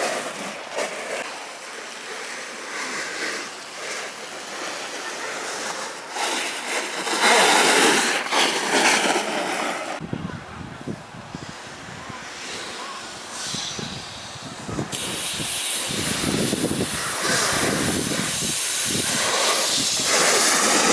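Alpine snowboard sliding and carving, a steady rushing hiss that swells twice as the board's edge bites harder, mixed with wind on the microphone.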